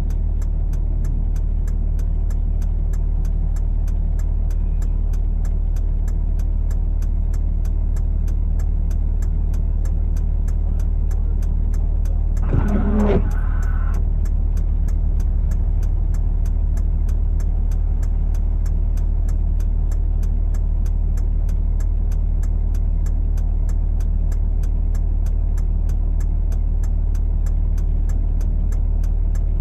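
A vehicle engine running steadily with a low hum, with a fast, even ticking throughout and a brief louder sound about 13 seconds in.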